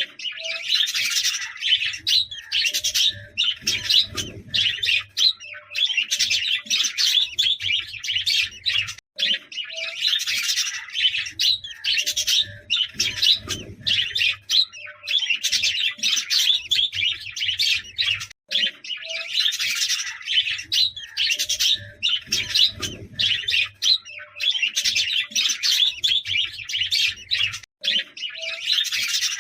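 A flock of budgerigars chattering and warbling, with dense chirps. The same stretch of chatter repeats about every nine seconds, with a brief break at each repeat.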